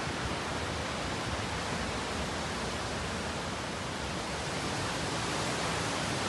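Hurricane wind and rain: a steady, even rushing with no gusts standing out.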